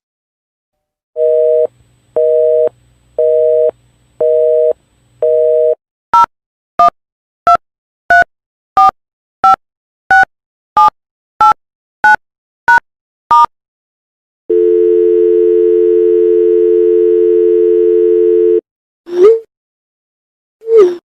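Landline telephone tones in sequence. First a busy signal of five two-tone beeps about once a second, then a quick run of about a dozen touch-tone keypad beeps as a number is dialled. Next a steady dial tone for about four seconds, then two short swooping blips near the end.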